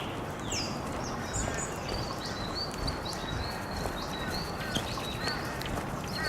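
Dawn chorus of small wild birds: a string of quick, high chirps and twitters, with a few falling whistles, over a steady background hiss.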